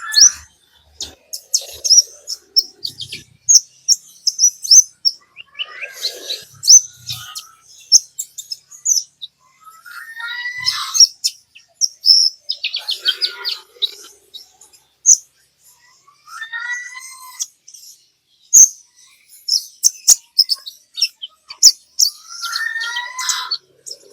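Konin songbird song played as a pancingan call to trigger other birds into singing: rapid, high chattering twitters and sharp ticks, broken every few seconds by a lower warbled phrase.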